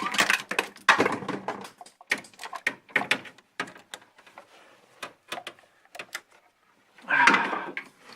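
Hand tools and metal parts clinking, knocking and scraping in the engine bay while a spark plug is being fished back out, with a louder scraping rattle about seven seconds in.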